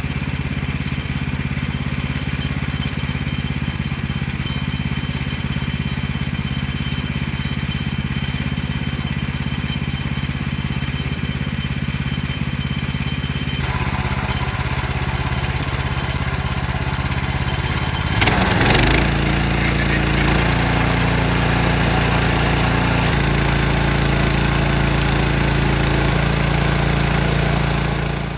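Engine of a portable bandsaw sawmill running steadily. A little past halfway a brief loud rush of noise comes, then it runs louder until it cuts off suddenly at the end.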